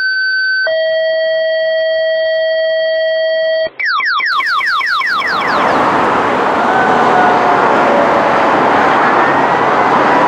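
Fire dispatch two-tone paging alert: a short high tone, then a longer lower tone lasting about three seconds. After a brief gap, a fire engine's electronic siren sweeps rapidly upward several times. It then gives way to the rumble of the Pierce Arrow fire engine under way, with a siren winding slowly up and down over it.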